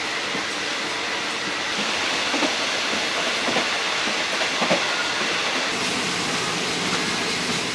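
Third-class ordinary passenger train running along the track, heard from inside the carriage: a steady rush of wheel, track and air noise with a few faint knocks.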